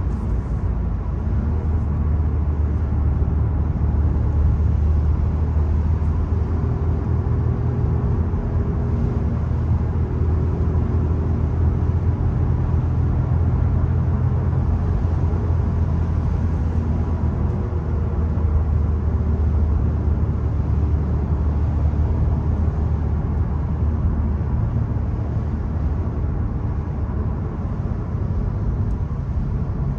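Volkswagen Golf 1.0 TSI's turbocharged three-cylinder petrol engine running while the car drives, its pitch drifting up and down with the revs over a steady rush of tyre and road noise.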